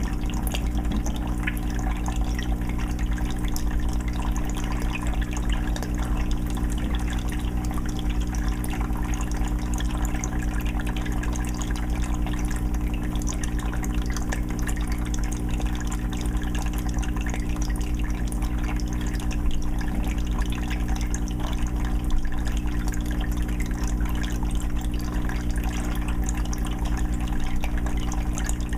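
Aquarium filter running: water steadily trickling and splashing into the tank with a fine patter of drips, over a constant low hum.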